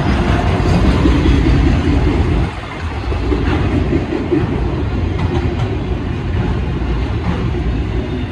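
Freight train passing close by, its cars rolling over the rails in a loud, steady rumble.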